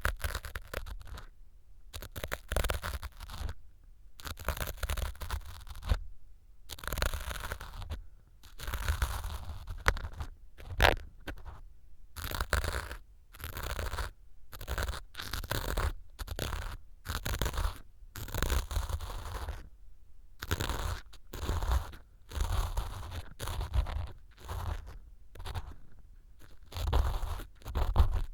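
Ear pick scraping and crunching through small pieces of dry floral foam, set as mock earwax in a silicone ear model, close on a binaural microphone. A crisp scraping stroke comes roughly every second, with a sharp click about eleven seconds in.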